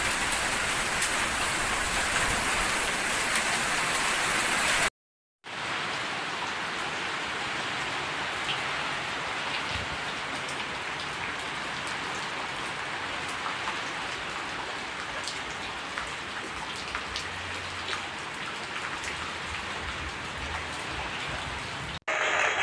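Heavy rain pouring down in a steady hiss. It cuts out briefly about five seconds in, then carries on a little quieter, with many scattered sharp taps of drops hitting surfaces.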